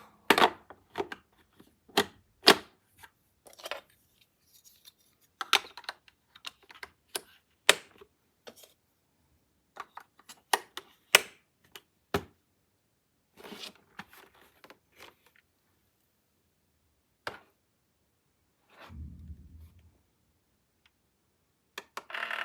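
Irregular sharp clicks and knocks, many in the first twelve seconds and then only a few, with a brief low rumble near the end.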